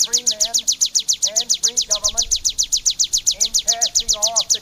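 Ciblek, a prinia kept as a songbird, singing a rapid, unbroken run of high falling notes, about ten a second.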